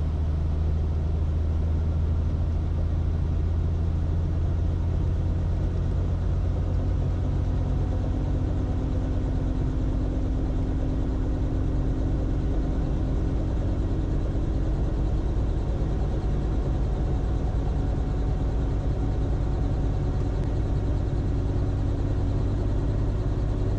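Robinson R44 helicopter's six-cylinder piston engine and rotor running up to speed as the throttle is rolled up. A steady low rumble runs throughout, with a tone that climbs slowly in pitch from about a third of the way in.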